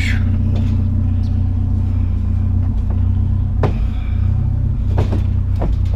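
A vehicle engine idling with a steady low hum, with a few sharp clanks of scrap metal being shifted in a truck bed. A short scraping squeak comes at the very start, and the knocks fall in the second half.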